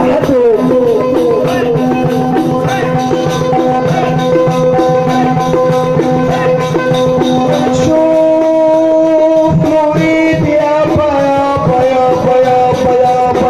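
Egyptian Sufi praise-song ensemble music: a melody line holding long, ornamented notes over steady hand percussion with jingles, and no words sung.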